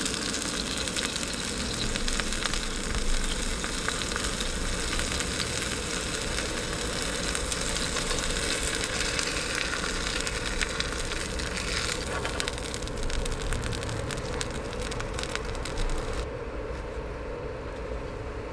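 Steady rain, a dense patter of fine drops, with the bright patter cutting off abruptly about sixteen seconds in, leaving a duller, quieter hiss.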